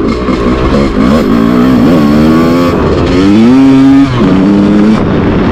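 Two-stroke dirt bike engine revving hard under acceleration. Its pitch climbs twice, then drops off sharply about four seconds in as the throttle is backed off.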